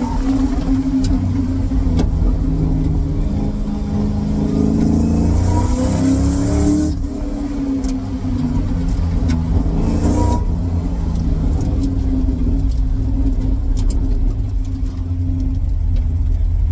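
Fox-body Ford Mustang's engine heard from inside the cabin under hard acceleration, its pitch climbing, then cut back sharply about seven seconds in and again around ten seconds before running steadier and lower.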